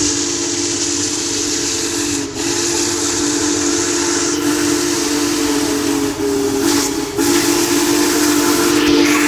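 Union Pacific Big Boy steam locomotive's chime whistle blowing long blasts, a chord of several notes with a couple of brief breaks, over a steady hiss.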